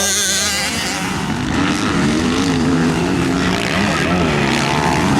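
Motocross bike engine running, its pitch rising and falling over and over as the throttle is worked, from about a second in.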